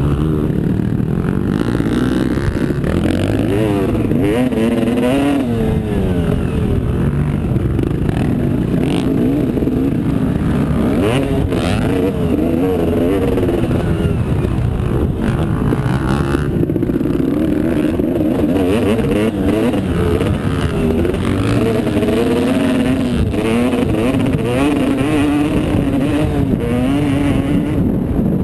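Motocross motorcycle engine running hard, its pitch rising and falling over and over as the throttle is opened and closed.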